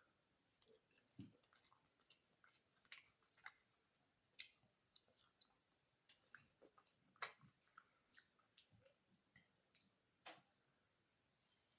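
Faint chewing: soft, irregular mouth clicks and smacks of someone eating beef biryani, several a second.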